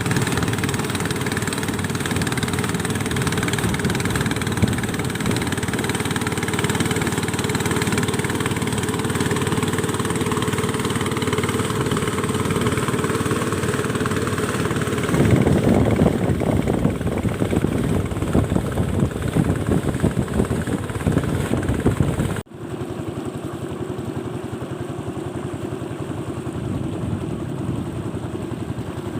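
A small engine running steadily, louder for several seconds past the middle; after a sudden break near the end it goes on more quietly.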